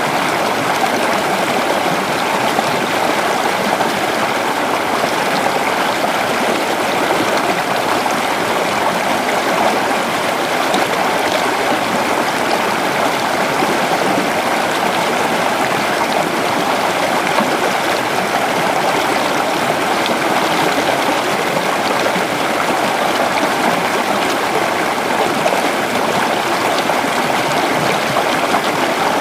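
Creek water flowing steadily over stones, a continuous babbling rush.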